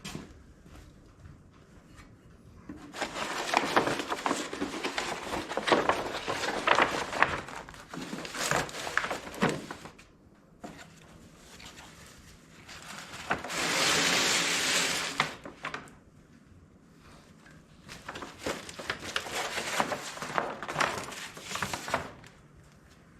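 A sheet of paper rustling and crinkling as it is handled and spread out, in three rough stretches, with a steady hiss for about two seconds in the middle.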